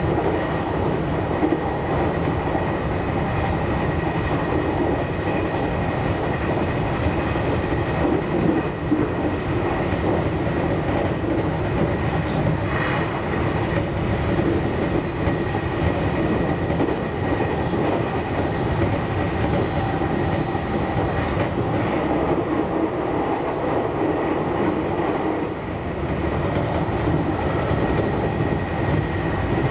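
JR Kyushu 813 series electric train running at speed, heard from inside its front cab: a steady rumble of the wheels on the rails with a steady high whine over it.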